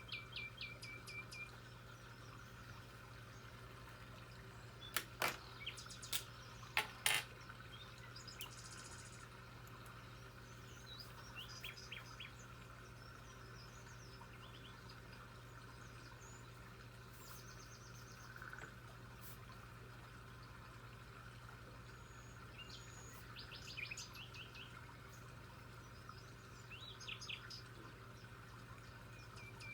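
Birds chirping in short trills of quickly repeated notes, scattered through, over a steady low hum. A few sharp clicks or taps about five to seven seconds in are the loudest sounds.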